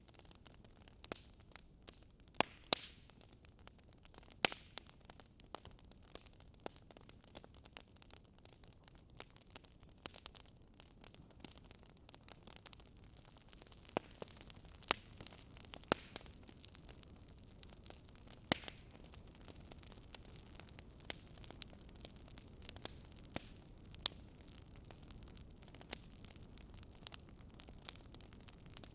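Fire crackling: irregular sharp pops and snaps, a few louder ones standing out, over a soft steady hiss.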